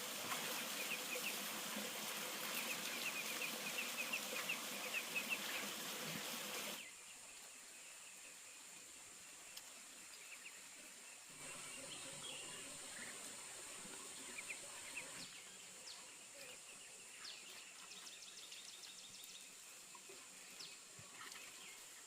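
Rural outdoor ambience: small birds chirping and insects over a steady background noise, which drops abruptly about seven seconds in and shifts level twice more.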